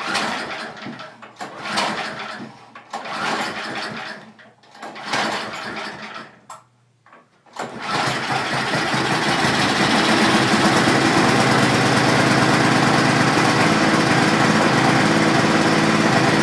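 Cold start of a John Deere TRX 24 snowblower's Tecumseh engine, on choke at about half throttle after months unused: several short turning-over surges from recoil-starter pulls about a second apart, then, about eight seconds in, the engine catches and runs steadily.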